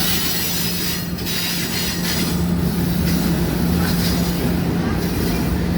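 Passenger train running: a steady low drone under hissing, rattling rail noise whose upper part swells and fades.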